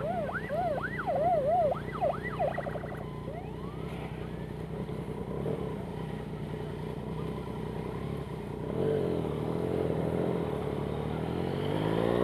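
Yamaha MT-09's three-cylinder engine idling steadily. For the first few seconds a siren yelps over it in quick rising-and-falling wails, switching to a fast warble before cutting off. Right at the end the engine starts to rev up.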